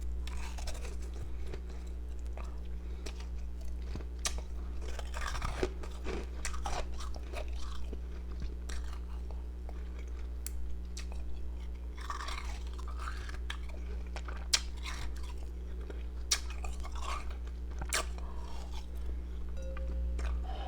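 A person biting and chewing powdery ice pieces close to the microphone: irregular crisp crunches and crackles, with a few sharper single cracks as pieces break.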